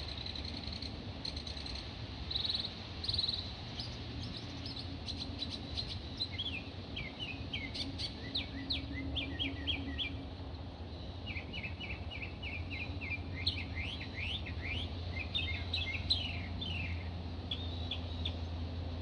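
Small birds chirping: a few high notes at first, then rapid runs of short, quick-sweeping chirps through most of the stretch, over a steady low rumble.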